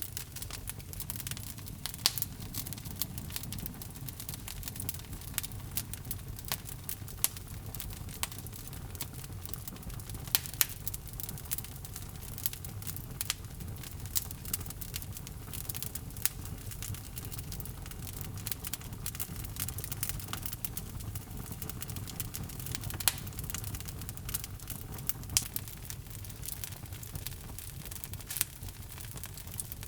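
Wood logs burning in a fireplace: a steady low rumble of flames with frequent irregular crackles and a few sharp, louder pops.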